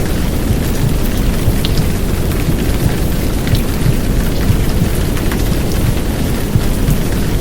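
Heavy downpour rain mixed with a womb sound: a steady, dense rushing noise with a deep low rumble beneath it and scattered sharp drop ticks.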